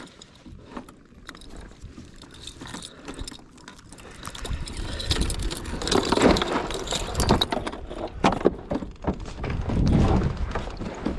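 Clicking and handling noise from fishing gear on a kayak, growing louder about four seconds in.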